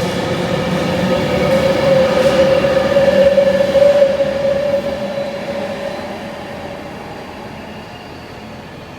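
A train running through the station, with a steady whine that rises slightly in pitch, is loudest about four seconds in and then fades away.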